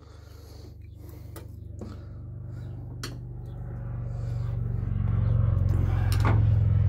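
A train's low rumble grows steadily louder as it approaches, with a few sharp clicks from small carburetor parts and a screwdriver being handled on the bench.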